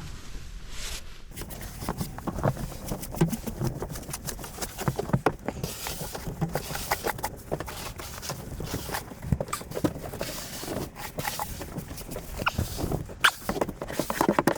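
Irregular crunching and scuffing of deep, fluffy snow being pushed and trodden on a boat deck, with footsteps; a louder cluster of crunches near the end.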